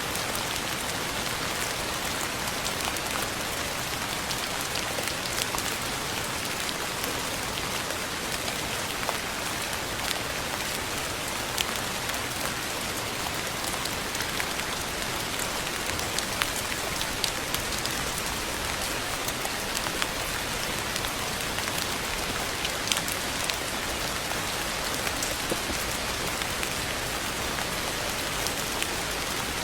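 Steady rain falling: an even hiss with many separate drop hits ticking through it.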